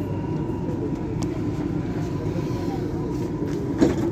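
Steady interior rumble of a Dubai Metro train car, with a faint steady whine and one short knock near the end.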